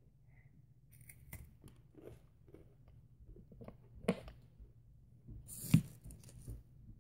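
Faint crunches and clicks of a person chewing a dark chocolate Kit Kat wafer bar, with two sharper crunches about four and nearly six seconds in.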